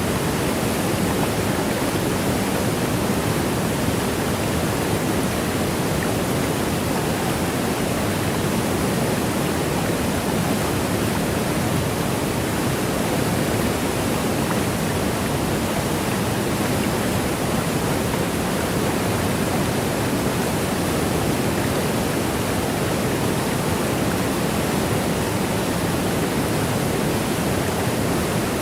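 Waterfall rushing in a steady, unbroken roar of falling water, with no changes or separate splashes.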